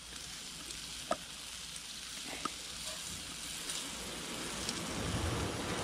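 Squid rings sizzling in oil in a small frying pan, with two light clicks of metal tongs against the pan about a second and two and a half seconds in.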